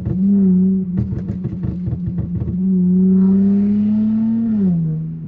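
Dodge Charger's engine revving: a short rev, then a longer one held about two seconds before the pitch drops back, with a rapid uneven burble from the exhaust between the revs.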